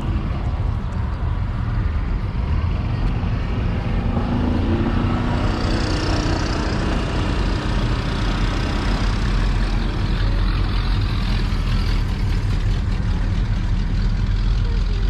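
A vehicle engine running with a steady low rumble, with a brief rise in its sound around four to six seconds in.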